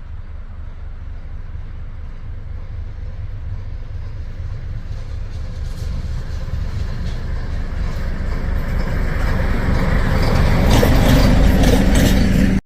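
Train approaching and drawing close, its rumble growing steadily louder, with wheel clatter and rail noise building near the end before the sound cuts off abruptly.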